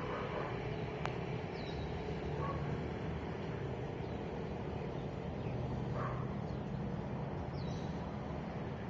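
Steady rumble of traffic, with a few short bird chirps and a couple of faint dog barks over it.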